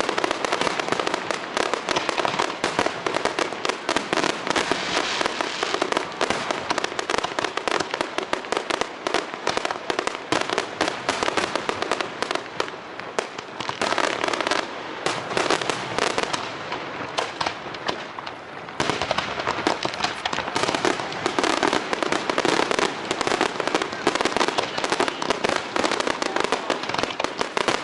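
Fireworks display: a dense, nonstop barrage of crackling and popping shell bursts. It thins out and grows quieter past the middle, then comes back at full strength about two-thirds of the way through.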